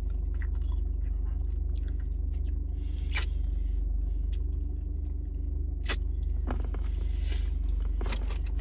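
A person chewing soft glazed donut holes, with wet mouth clicks and smacks, two of them sharper about three and six seconds in. A steady low hum runs underneath.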